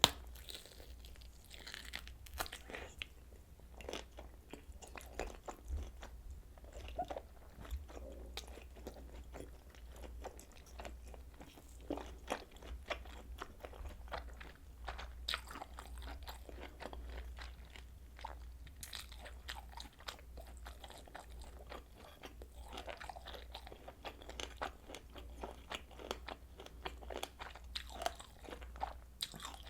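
Close-miked eating of kielbasa sausage: continuous biting and chewing, with many small crunchy, wet mouth clicks coming irregularly. A steady low hum runs underneath.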